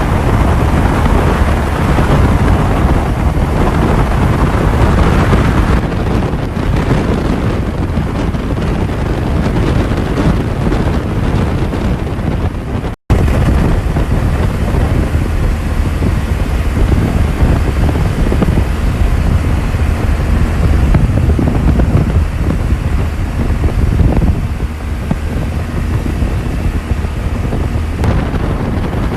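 Wind buffeting the camera microphone while a motorcycle is ridden, with the engine running underneath. The sound cuts out for an instant about halfway through.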